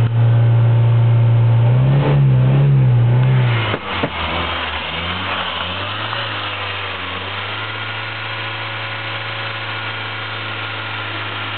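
Škoda Favorit's 1.3-litre four-cylinder engine running steadily, its pitch wavering briefly about two to three seconds in. A thump comes about four seconds in, and after it the engine note is quieter and steady, heard from beside the open engine bay.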